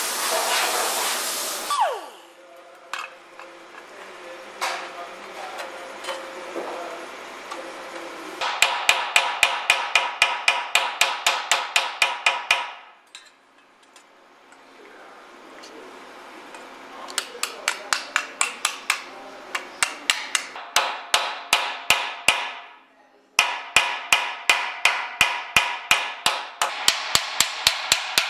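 Rapid hammer blows on sheet steel, about five a second and ringing, in three runs separated by short pauses. They come while a rusted rocker panel and wheel-well lip patch are being shaped. A power tool is running at the start and stops about two seconds in.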